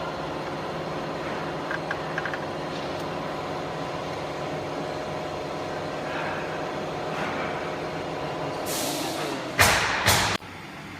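Steady machine hum made of many even tones. Near the end come two loud hissing bursts, and then the hum cuts off suddenly.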